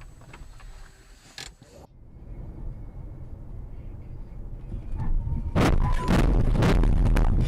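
Car crash heard through a dashcam: road and engine rumble builds, then about five and a half seconds in a loud, distorted run of crashing impacts begins and goes on past the end.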